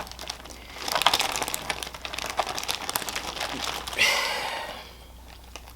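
Close-miked eating sounds from a seafood-boil mukbang: a run of quick crinkles, crackles and clicks as food is handled and chewed, then a short breathy hiss about four seconds in that fades away.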